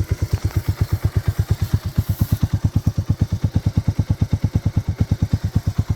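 Big Red's single engine running slowly and steadily, an even train of low exhaust pulses at about a dozen a second.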